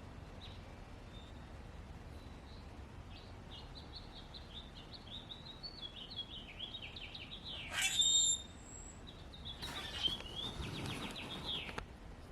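A small bird chirping in runs of quick, high repeated notes, with a louder call about eight seconds in. A brief rush of noise comes in under the chirps near the end.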